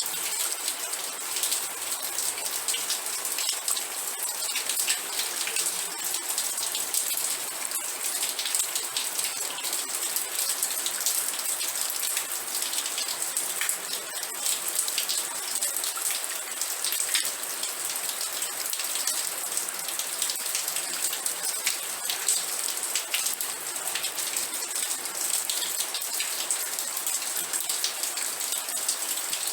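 Steady rain falling, a dense patter of close drops hitting a surface over an even hiss.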